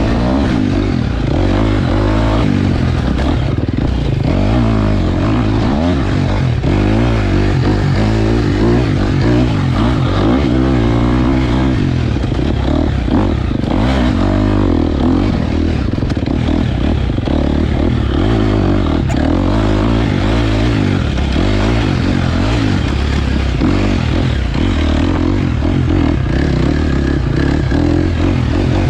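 KTM 250 XC-F dirt bike's single-cylinder four-stroke engine, revving up and down constantly as the bike is ridden along a trail, with scattered knocks and clatter from the bike over rough ground.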